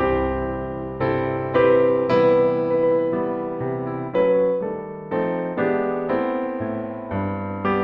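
Background piano music: chords and notes struck every half second or so, each fading after it is played.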